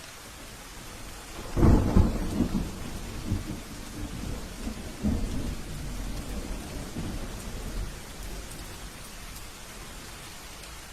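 Steady rain with a thunderclap about one and a half seconds in, rolling on as low rumbles that swell again a few times before fading out around eight seconds in.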